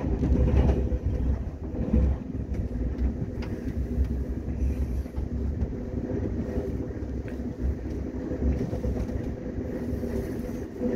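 KTX high-speed train running, heard from inside the carriage: a steady low rumble with a constant hum and a few faint clicks.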